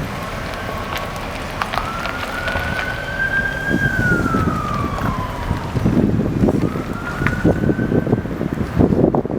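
A siren wailing: its pitch climbs slowly, falls away about halfway through, then climbs again later. Underneath is a steady low rumble of vehicle and wind noise.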